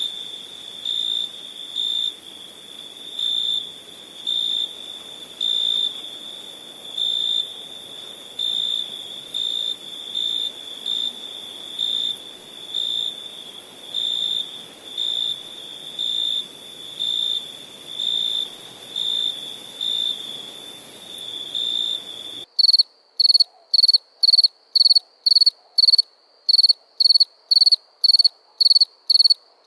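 Crickets chirping: a steady high trill with louder pulses about once a second. About 22 seconds in it changes abruptly to loud, evenly spaced chirps, about two or three a second, with quiet between them.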